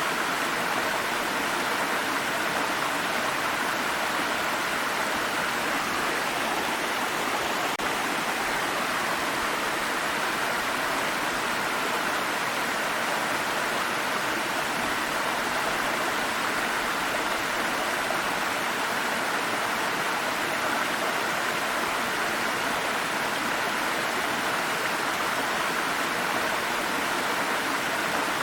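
Water stream flowing over rocks, a steady, even rush with no change in level.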